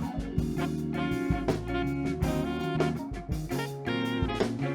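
Live band playing an instrumental passage with no vocals: guitar and bass over a drum kit, with sustained chords and regular drum hits.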